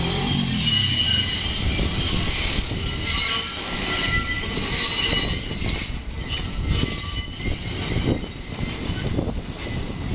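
R68-series New York City subway train moving over yard track, its steel wheels squealing in several high steady tones over a low rumble. In the second half the squeal thins and clacks over rail joints come to the fore.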